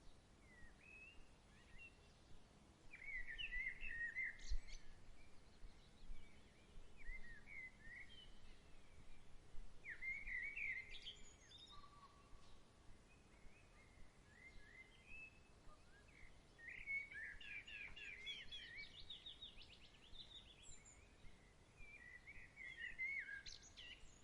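Faint songbirds singing in short chirping, warbling phrases, with a quick run of rapid notes about two-thirds of the way through.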